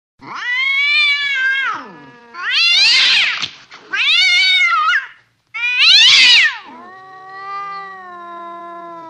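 A cat yowling: four loud, drawn-out meows, each rising and then falling in pitch, followed by a quieter, longer call near the end.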